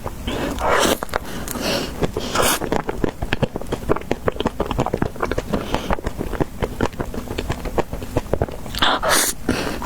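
Close-miked eating of an ice cream dessert: a dense run of crisp crunching and chewing clicks, with a few longer hissy scraping sounds between the bites.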